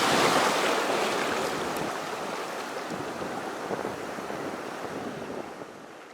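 Ocean surf: a wave breaking and washing in, the rushing noise slowly fading away.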